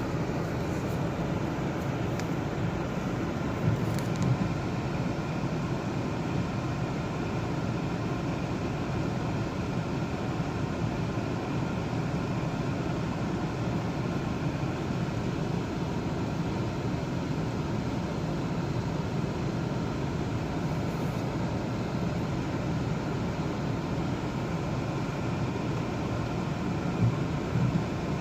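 Steady road and engine noise from inside a moving car, with a couple of small bumps about four seconds in and near the end.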